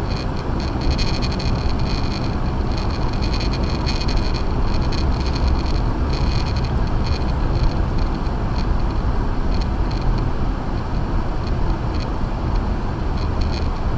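Acura MDX driving on a snow-covered road on Sumitomo Ice Edge winter tires: a steady low rumble of tyres and drivetrain, with a faint crackling throughout.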